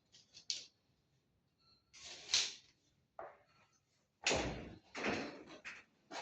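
Plastering tool scraping across ceiling plaster in several short strokes, with a heavier stroke and a thump about four seconds in.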